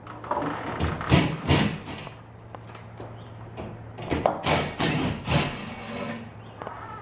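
Several knocks and clatters from objects being handled, two about a second in and a quick run of four more from about four seconds in, over a steady low hum.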